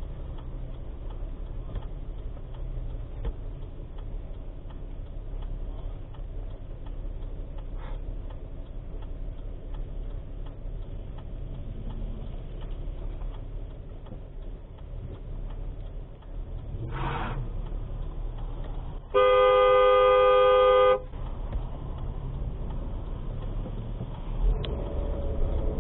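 A car horn sounds in one steady blast of about two seconds, over the continuous low rumble of a vehicle on the road.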